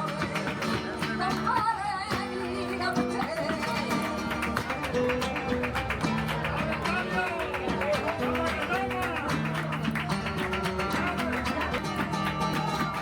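Flamenco music: a singer's wavering melismatic voice over strummed and plucked Spanish guitar.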